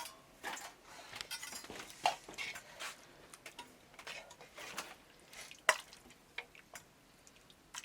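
Scattered light clinks and knocks at irregular intervals, a few with a brief ring; the sharpest comes just before the middle.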